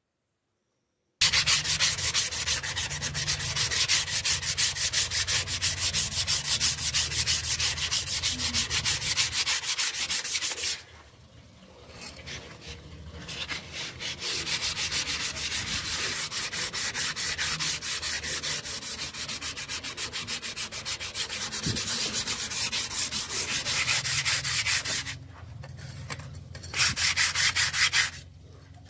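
Abrasive sanding on the rusty steel blade of a cleaver to remove the rust: fast, even scratching that starts about a second in, eases off twice and stops near the end.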